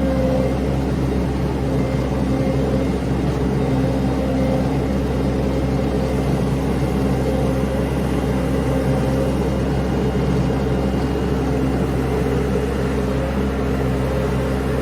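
A vehicle engine running steadily at an even speed, a constant hum with a few held tones and no revving or pauses.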